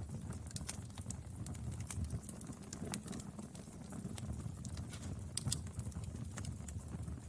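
Wood fire burning: irregular sharp crackles and pops over a low, steady rumble, with one louder pop about five and a half seconds in.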